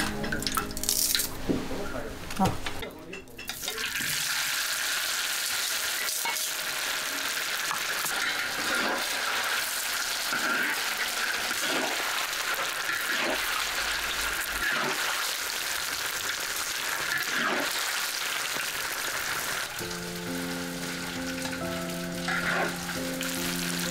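Diced food frying in hot oil in a large wok, a steady sizzle with spatula strokes every second or two. Background music comes in near the end.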